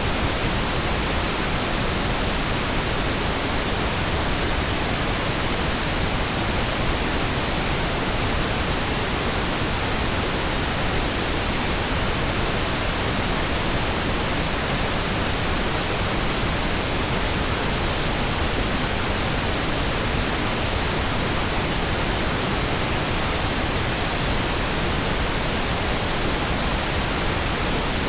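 Steady, continuous pink noise: an even hiss spread across the whole frequency range, with no changes or breaks.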